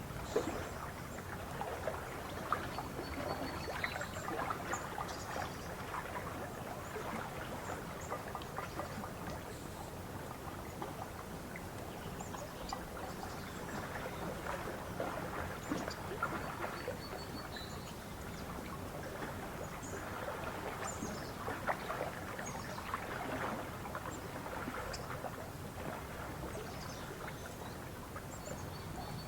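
Lake water lapping and splashing in small, irregular wavelets. Faint short, high bird chirps come now and then.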